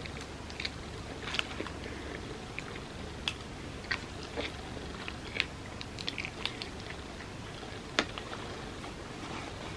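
Close-miked eating sounds: a person chewing food, with irregular wet mouth smacks and small crunches, one sharper click about eight seconds in.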